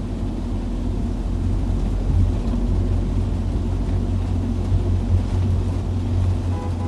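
Steady low rumble of a vehicle travelling on a highway in heavy rain and strong wind, with a short pitched tone near the end.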